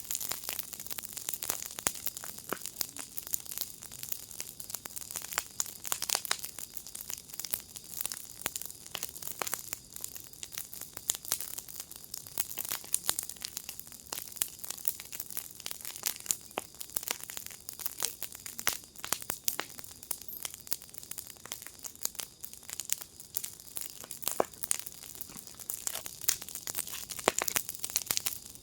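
Wood fire in a fire pit crackling and popping, dense irregular snaps over a steady hiss.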